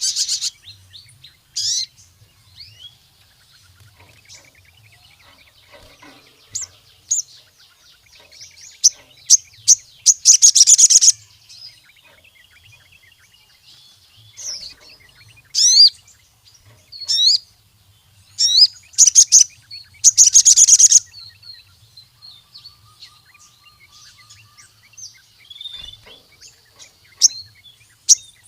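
Sogon (crimson sunbird) singing in full voice: scattered sharp high chirps broken up by several rapid, loud trills lasting a second or two each.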